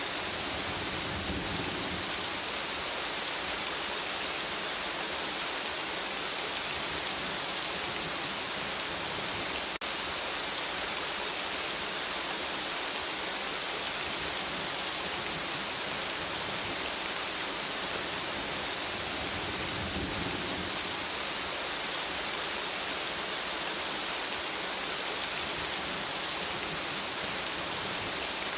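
Steady rain falling on forest foliage, an even hiss, with low rumbles of distant thunder about a second in and again about twenty seconds in.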